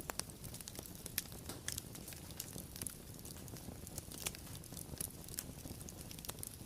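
A fire crackling: irregular sharp pops and snaps, several a second, over a steady low rumble.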